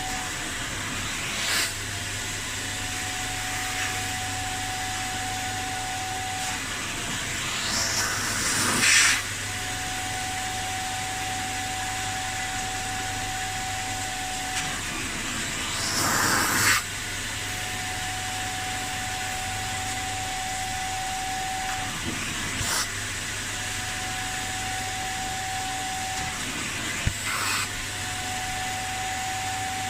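Kärcher Puzzi 10/1 spray extractor running on car seat upholstery: a steady motor whine whose pitch dips briefly every several seconds, with short hissing rushes of spray and suction, the loudest about 9 and 17 seconds in.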